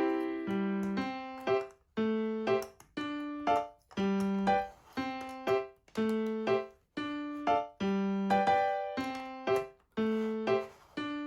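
Background music: a light, bouncy piano-like keyboard tune, plucky notes at about two a second, each struck and fading.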